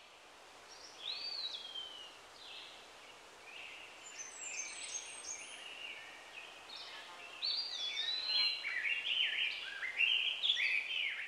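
Songbirds singing and calling over a faint steady hiss. At first there are scattered whistled notes, some gliding down in pitch. From about two-thirds of the way in they become a busier chorus of quick overlapping chirps.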